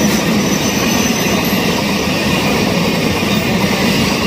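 Passenger express train running, heard from its open doorway: a steady rumble and rush of wheels on rails, with a faint thin high squeal above it.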